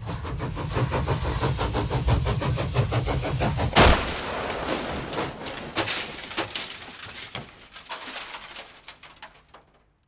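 Sound effect of a steam engine running with a fast, even chuffing and rumble, then a loud crash about four seconds in as it smashes through a cart. Smaller crashes and clatter follow, then the sound fades away.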